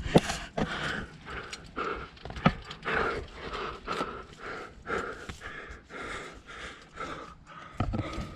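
A climber panting hard, about two breaths a second, with a few sharp clicks and knocks in between.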